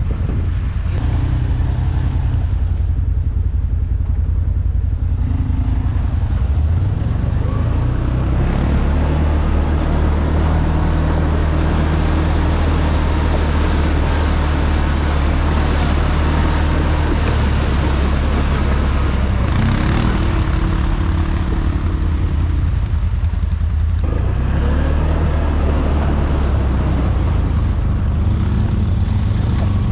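ATV engine running steadily, picking up speed about seven seconds in with a rise in pitch and a rush of noise over it, then easing back down about six seconds before the end.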